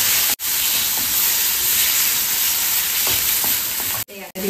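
Onion-ginger-garlic paste and ground spices sizzling in hot oil in a stainless-steel kadai as a wooden spatula stirs them: a steady frying hiss. It cuts out briefly twice, once just after the start and once near the end.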